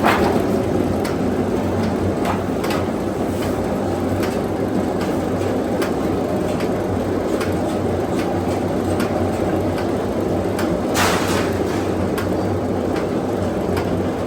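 Metalworking shop machinery running steadily with a low hum, and scattered metallic clicks and knocks. A louder clank rings out about eleven seconds in.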